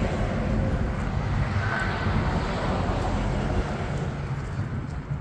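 Steady low rumbling noise with a fluttering bottom end and no distinct events.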